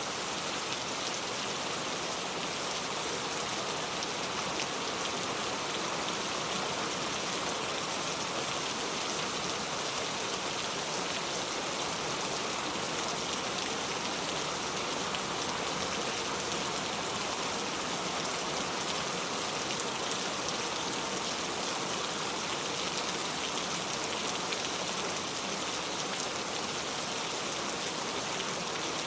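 Steady rain falling, an even hiss of many drops that keeps up without change.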